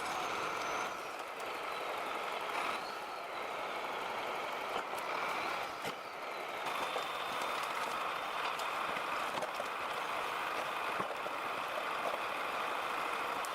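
Heavy vehicle engine running steadily under load, with a faint high whine that shifts in pitch.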